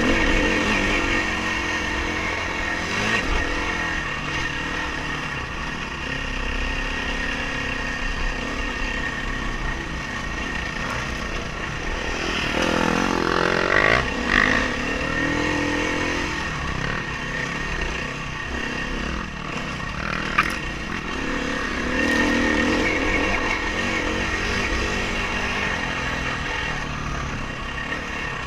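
Dirt bike engine running at speed, its revs rising and falling as the rider works the throttle. There is a sharp knock about twenty seconds in.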